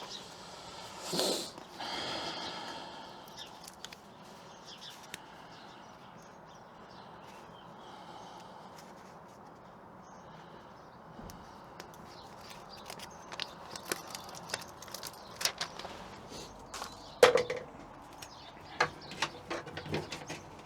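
Scattered clicks, taps and rustling of hands handling insulation strips and tools, with a quiet stretch in the middle and a run of sharp clicks in the second half, the loudest about seventeen seconds in. A short, loud pitched sound comes about a second in.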